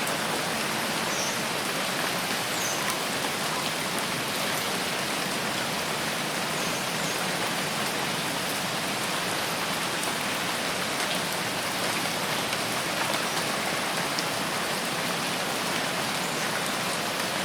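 Steady rain falling, a continuous hiss with faint scattered drop ticks.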